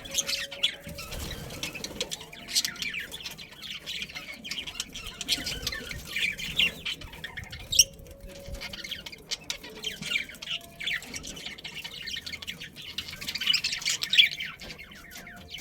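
A group of budgerigars chirping and chattering, many short high calls overlapping continuously, with a few louder squawks among them.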